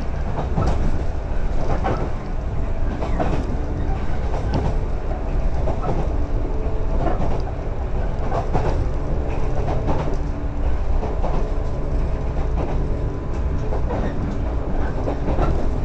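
JR 115 series electric train running, heard from inside the carriage: a steady low rumble with hum and wheels clicking over rail joints.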